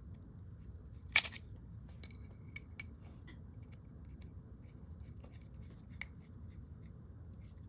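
Small metal reel parts and a tool clicking and tapping as a fishing reel is put back together, with one sharp click about a second in and a few lighter ticks after.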